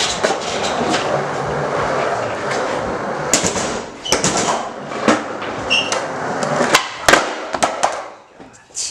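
Skateboard wheels rolling for about four seconds, then a string of sharp clacks and slaps as the board is flipped and lands, about five hits over the next few seconds.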